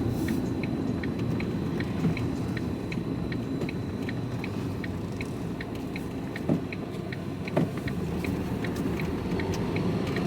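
Turn-signal indicator ticking steadily, about three clicks a second, over the low rumble of the vehicle driving, heard from inside the cab. Two louder knocks come in the second half.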